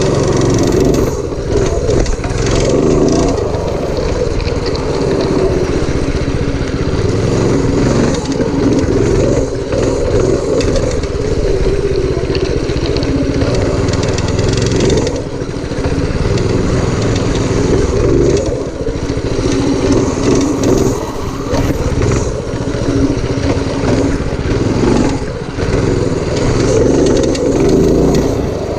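Predator 212cc single-cylinder four-stroke engine on a home-built minibike running under throttle, its loudness easing off briefly a few times.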